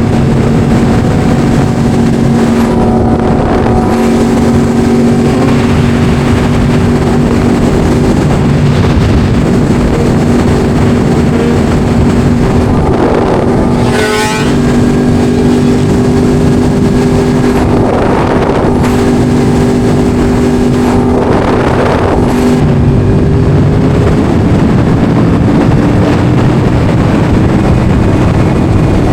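Yamaha R1 sportbike's inline-four engine running at steady cruising revs under a rush of wind noise. It dips briefly about halfway through, and the revs climb gradually near the end.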